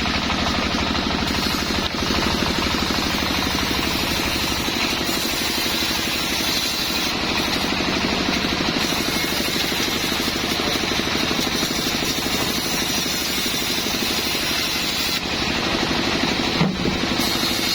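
Small wood sawmill running steadily on its engine, a continuous mechanical drone with a fast, even pulse. A single short knock sounds near the end.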